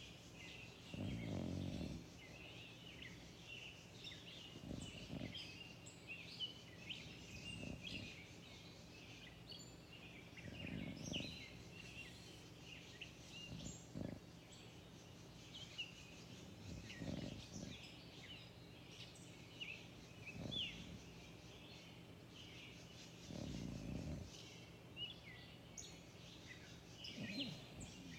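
Many songbirds chirping and trilling in a dawn chorus. A louder, low, rough sound lasting about a second comes back roughly every three seconds.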